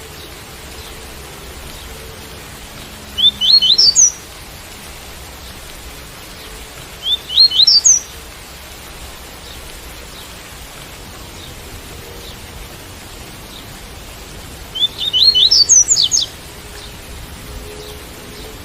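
Double-collared seedeater (coleiro) singing the tui-tui song type: three short phrases of quick upslurred whistled notes, each about a second long, over a steady rain sound.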